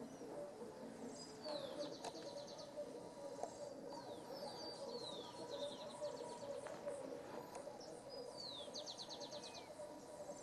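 Songbird singing: repeated high phrases of falling whistled notes, twice ending in a fast trill, over a faint steady low hum.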